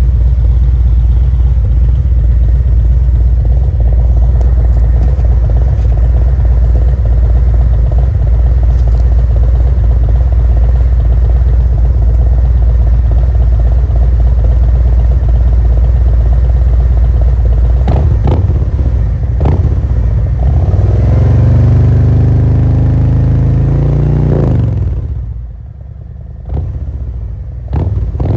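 Harley-Davidson 2023 Road Glide Special's Milwaukee-Eight 114 V-twin running through Khrome Werks 2-into-2 mufflers with the baffles removed, so the exhaust is wide open: a loud, steady idle, then quick throttle blips and one longer rev that rises and falls, with a few more short blips near the end.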